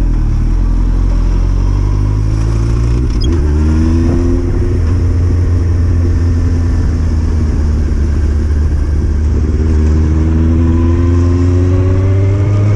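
Yamaha FZS1000's inline-four engine running as the motorcycle rides along, its revs climbing about three seconds in and again over the last few seconds.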